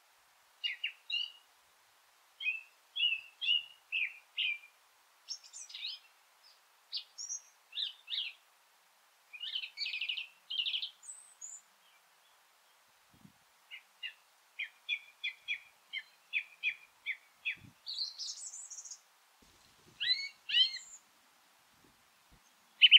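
Songbirds singing: short phrases of clear chirps and quick twittering, separated by brief pauses, with nothing else audible underneath.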